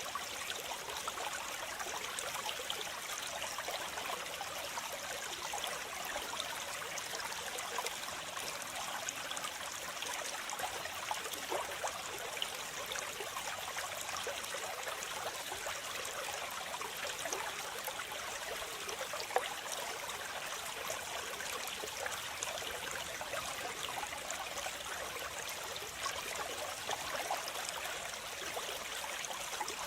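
Waterfall: a steady rush of falling and splashing water, with many small splashes and no change in level.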